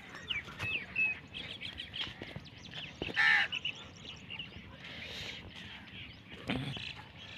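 Birds calling in quick short chirps, with one louder call just after three seconds in.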